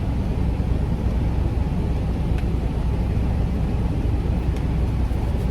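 Diesel engine idling with a steady low rumble, heard inside a parked semi truck's cab. A faint click comes about two and a half seconds in.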